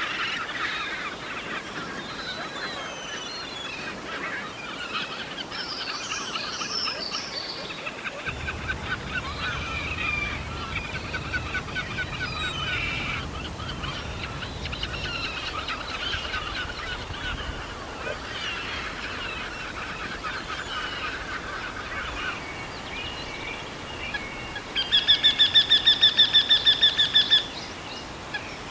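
Mixed chorus of birds chirping and trilling, many calls overlapping. Near the end one bird gives a loud, fast series of repeated pitched notes for a couple of seconds.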